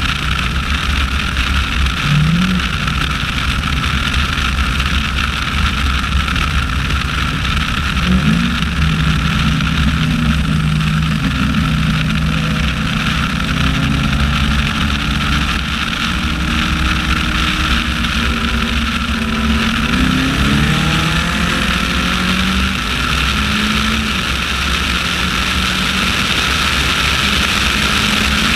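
Inside a Cadillac CTS-V coupe at speed: its supercharged V8 drones under steady low road rumble and wind noise. The engine note steps up in pitch twice in the first third, then glides up and down through the middle as the car speeds up and eases off.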